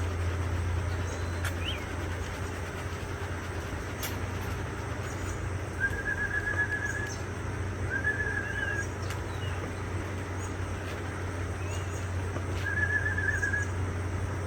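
Outdoor ambience with a steady low hum, over which a small bird gives a short, even trill three times, each about a second long, with scattered faint chirps between.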